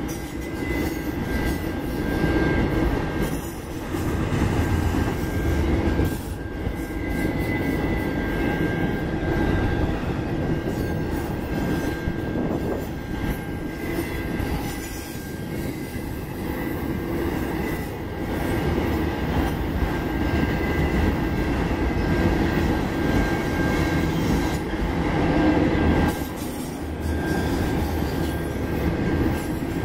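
Freight train of autorack cars rolling past at steady speed: a continuous rumble of steel wheels on rail with occasional clicks, and a thin steady high squeal from the wheels.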